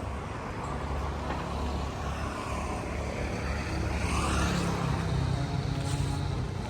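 An engine running steadily at a low speed, with a rising whine about four seconds in.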